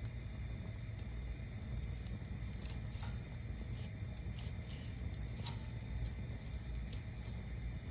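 Wood bonfire crackling: scattered sharp snaps and pops of burning wood over a steady low rumble.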